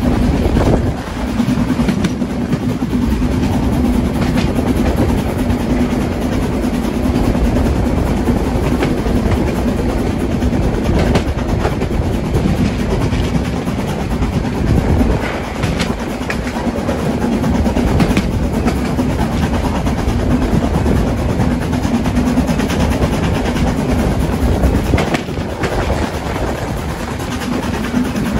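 Metre-gauge Harz steam train running along the rails: a steady rumble and low hum with the wheels clacking now and then over rail joints.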